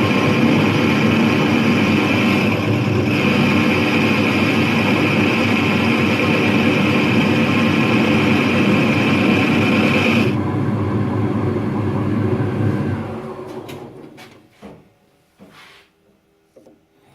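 A motor-driven workshop tool running steadily. About ten seconds in its sound changes, then it winds down and stops, followed by a few light knocks.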